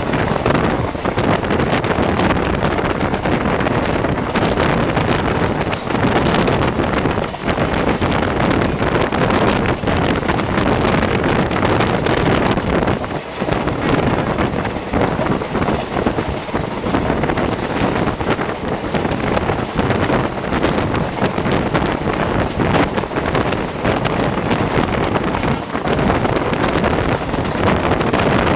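Express passenger train running at speed, heard from on board: the steady rumble of the coach on the rails, with heavy wind buffeting the microphone.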